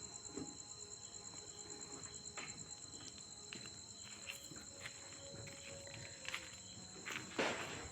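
Insects, likely crickets, trilling steadily in a high rapid pulse, with scattered faint clicks and a short louder burst of noise near the end.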